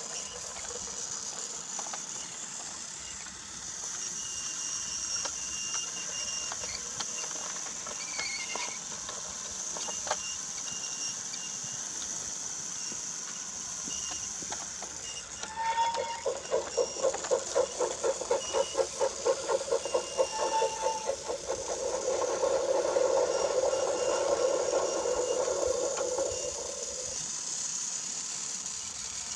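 Battery-powered Brio toy train running on wooden track, its small motor giving a steady high whine. About halfway through comes a run of rapid, even clacking, about five a second, which gives way to a louder hum for several seconds before it fades near the end.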